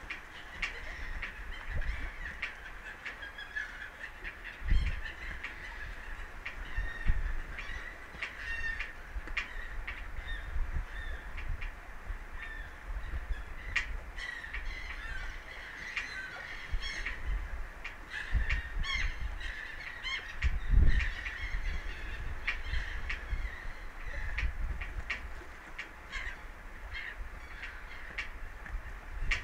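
Many short bird calls repeated throughout, over irregular low rumbles and thumps.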